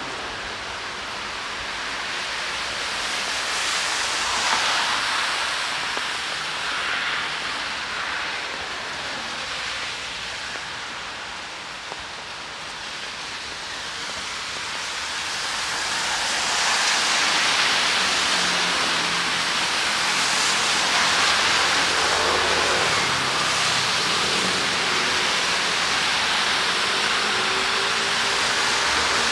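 Rain falling on a city street, a steady hiss that eases off and then grows louder about halfway through.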